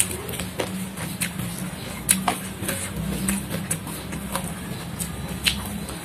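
Close-miked chewing of crunchy raw vegetables, with irregular crisp crunches and fingers handling food on a plastic plate. The loudest crunch comes about two seconds in. A steady low hum runs underneath.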